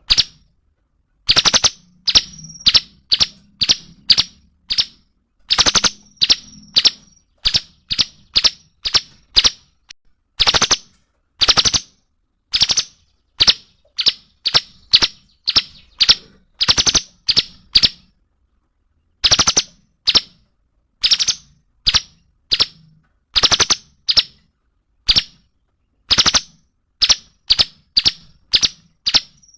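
Cungkok songbird calling in loud, sharp, clipped notes, repeated in quick runs of several notes broken by short pauses.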